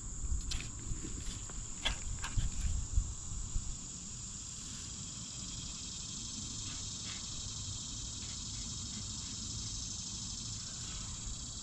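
A steady high-pitched drone of insects calling, unbroken throughout, with a scatter of clicks and knocks in the first four seconds.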